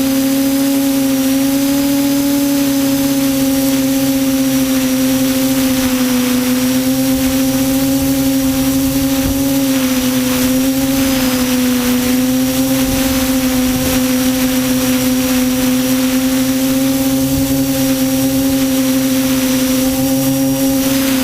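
QAV400 quadcopter's electric motors and propellers humming loudly in flight, one steady pitch that wavers slightly up and down.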